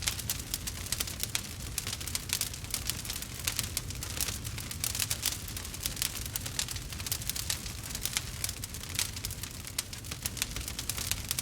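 Campfire burning with steady, irregular crackles and pops over a low rumble of the flames.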